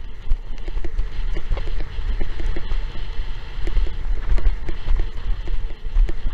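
Strong wind buffeting the microphone, with rapid irregular knocks and slaps of a windsurf board hull riding over choppy water.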